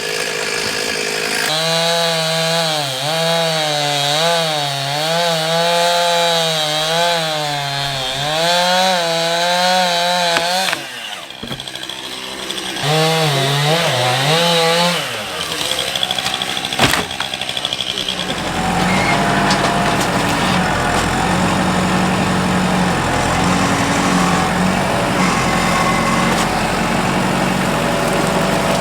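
Chainsaw cutting into a walnut log, its engine pitch rising and dipping with the load. It drops away about ten seconds in and revs again briefly. From about eighteen seconds a steadier engine sound with a rushing noise runs on.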